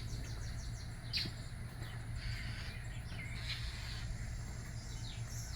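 Small birds chirping, short falling calls scattered every second or so, over a steady low hum.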